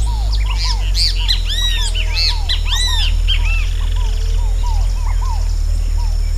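Several wild birds chirping and calling together, a dense flurry of high arched chirps about a second in that thins out after the third second, over repeated lower call notes. A steady low rumble runs underneath.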